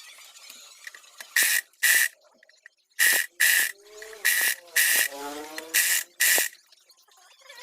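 Short, loud blasts of pressurised air hissing, eight of them in four evenly spaced pairs.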